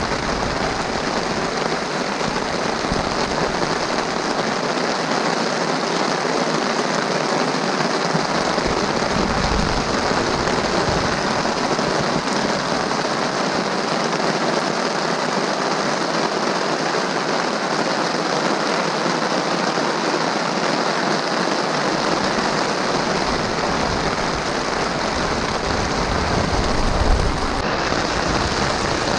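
Heavy rain pouring onto river water, a dense steady hiss.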